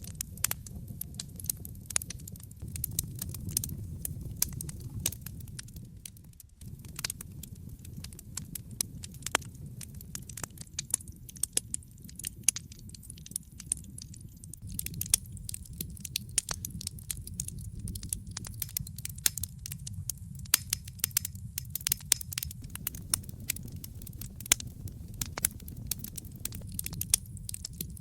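Wood fire crackling in a fireplace: many irregular sharp pops and snaps over a steady low rumble of the burning logs, which briefly drops away about six and a half seconds in.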